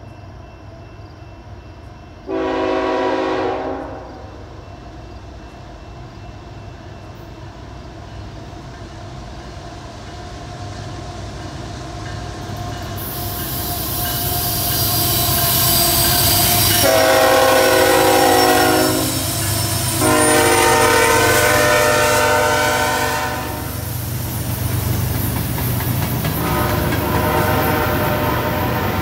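Approaching diesel freight train: the locomotive's horn sounds a blast about two seconds in, then two long blasts about two-thirds of the way through over a rumble that keeps growing louder. Just before those blasts the wheels screech high on the curve, and near the end a fainter horn sounds as the freight cars roll past, clacking on the rails.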